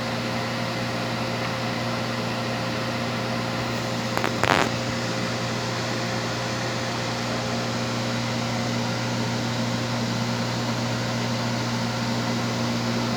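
Panasonic microwave oven running with a steady hum. There is a short burst of noise about four seconds in. The oven stays on through its timed cycle now that the burned door interlock micro switch has been replaced.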